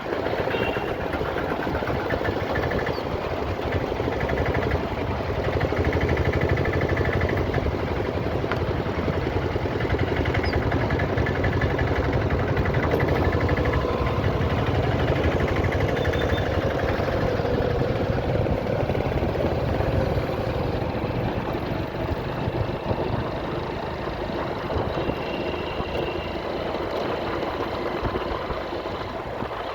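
Motorcycle engine running steadily while riding, with road noise. It grows louder a few seconds in and eases off after about twenty seconds.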